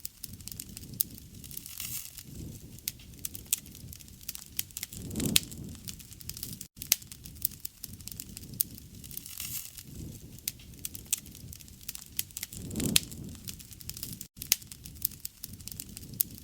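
Campfire crackling, with frequent sharp pops and snaps over a low rush of flames that swells twice, about five seconds in and near the end.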